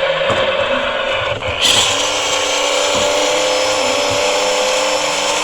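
Toy State Road Rippers toy tow truck playing its electronic sound effects: a steady, buzzy whirring noise that turns brighter and harsher about a second and a half in.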